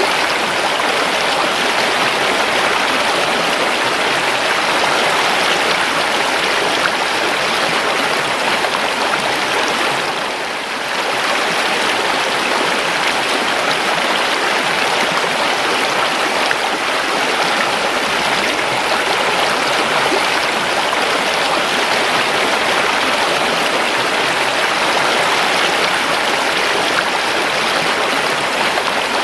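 A river flowing, a steady rush of running water that dips briefly about ten seconds in.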